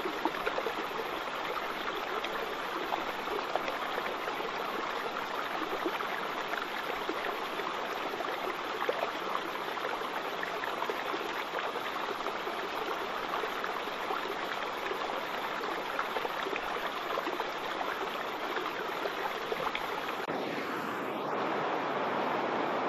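Waterfall water rushing and splashing in a steady, dense hiss. About twenty seconds in, the sound shifts to a slightly louder, smoother rush.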